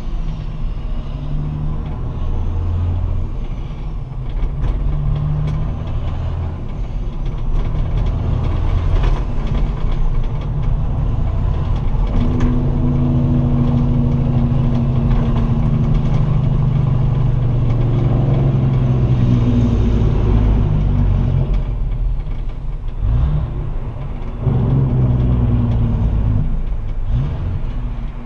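Straight-piped Kenworth semi truck's diesel engine pulling under load through open exhaust stacks. The note shifts in steps in the first few seconds, holds strong and steady through the middle, eases off about two-thirds of the way in, then pulls hard again briefly near the end.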